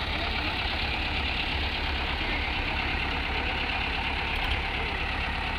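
Tractor's diesel engine running steadily with a low, even rumble.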